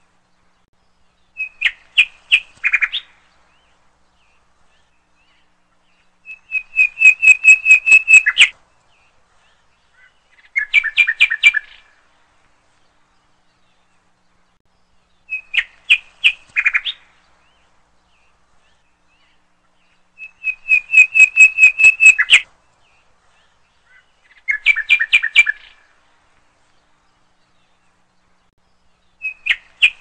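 A songbird singing short phrases of rapid, clear repeated notes, each phrase a second or two long with silent gaps between. The same sequence of three phrases comes round twice, as from a looped recording.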